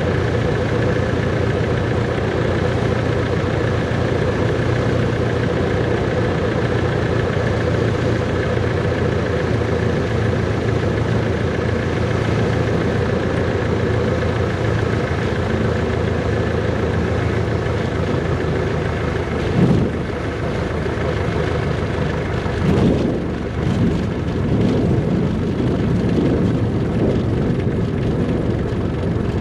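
Cessna 140's four-cylinder air-cooled piston engine running steadily, with a brief thump about twenty seconds in and a few more bumps a few seconds later.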